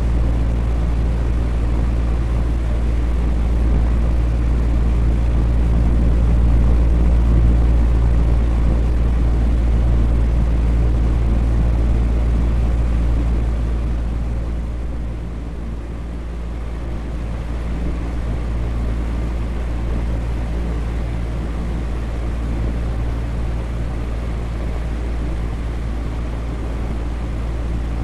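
Electric fan running steadily: an even rushing whir over a low hum. It dips slightly in level about halfway through, then comes back up.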